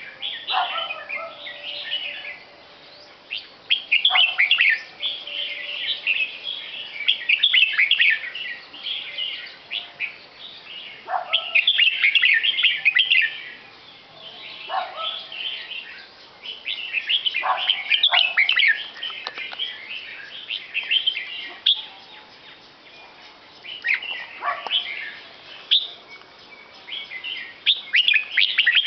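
A songbird singing in repeated bursts of quick, sharp chirps, a phrase every few seconds with short pauses between.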